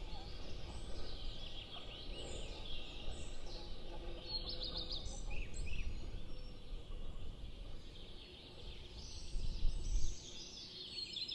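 Small birds chirping and trilling in spring, with wind rumbling on the microphone and a stronger gust near the end.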